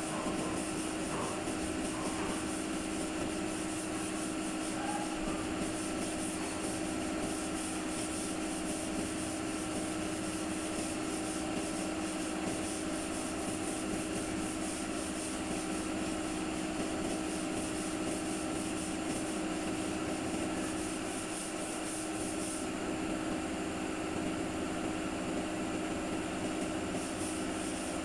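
A machine running steadily: a constant hum with a hiss above it. The hiss drops away about three-quarters of the way through and comes back near the end.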